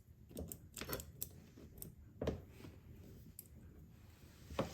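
Scattered light clicks and taps of hands handling the electric chainsaw's chain, bar and plastic housing, a few sharper knocks among them.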